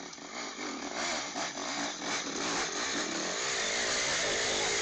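Dirt bike engine running and revving on a trail, growing gradually louder.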